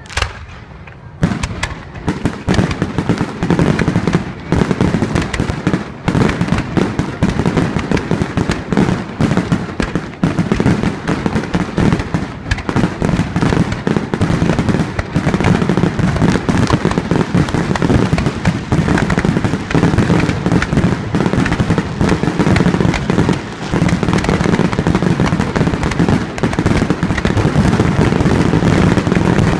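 Fireworks display: after a brief lull about a second in, a dense, unbroken barrage of aerial shells bursting and crackling, bang after bang with hardly a gap.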